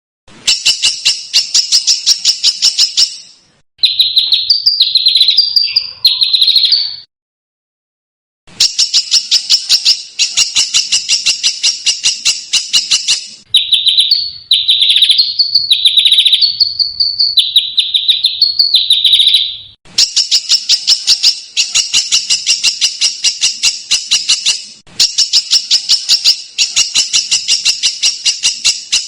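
Songbird song played from a masteran recording for training competition birds. Phrases of fast, harsh rattling trills alternate with runs of short, shrill, screeching notes, each phrase a few seconds long and cut off sharply.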